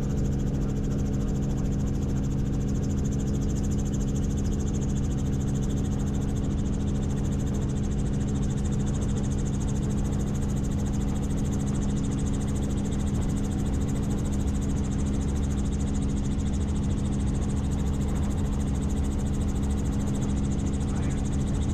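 Helicopter in flight: the steady drone of its rotor and turbine engine, with several steady low hums over a hissing wash, unchanging throughout.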